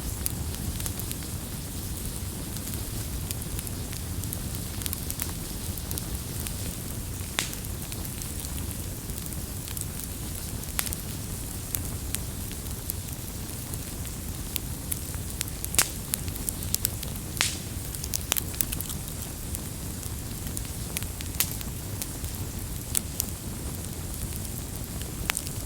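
Wood campfire burning with a steady low rumble of flame, broken by irregular sharp pops and crackles, which come thicker around the middle and latter part.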